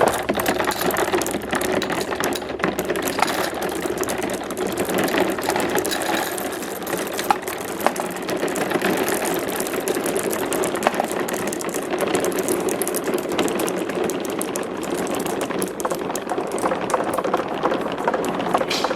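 Marbles rolling down a marble run track: a steady rolling rumble with a constant patter of small clicks.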